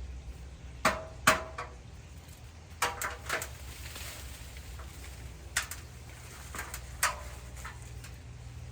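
A series of sharp clicks and clinks, about ten of them in loose irregular groups, over a low steady hum.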